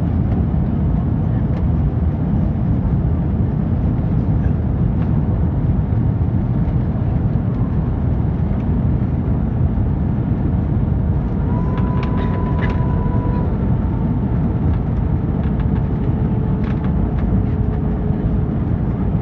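Steady low rumble of engines and airflow inside the cabin of an Airbus A321 airliner on its descent to land, with a short high tone and a few clicks about twelve seconds in.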